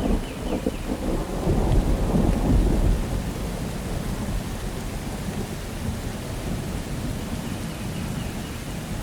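Steady rain with a low rumble of thunder, loudest in the first three seconds, then dying away into the even hiss of the rain.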